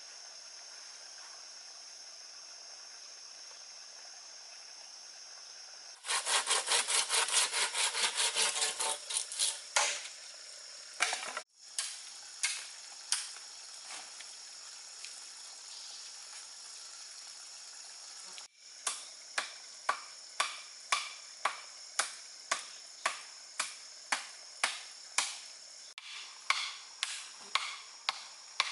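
A steady high insect buzz gives way, about six seconds in, to fast rhythmic hand-sawing strokes on wood. Later comes a long run of evenly spaced chopping blows on wood, about two a second.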